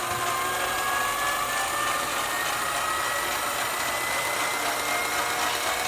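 Variable-speed metal lathe running and spinning an RC car wheel with a GRP tire. Its whine climbs slowly and steadily in pitch as the speed is raised, spinning the tire up to check it for ballooning.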